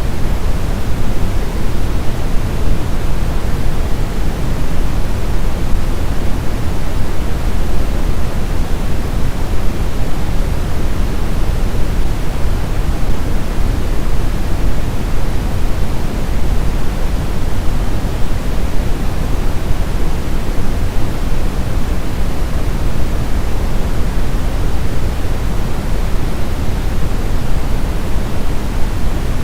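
Steady white-noise sleep sound: a constant, even hiss with no rhythm or events, heaviest in the low end and thinning toward the highs.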